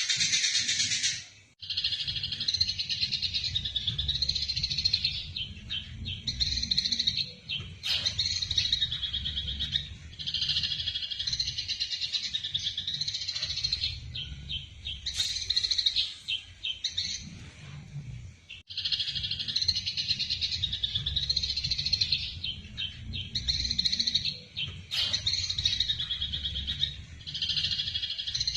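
Eurasian tree sparrows chattering in dense, rapid chirps, the agitated calls of sparrows fighting, in runs of a few seconds with short breaks, over a low steady rumble.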